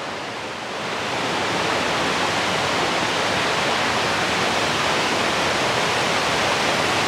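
Steady rush of creek water tumbling over cascades and falls, running high after heavy rain, growing louder about a second in and then holding even.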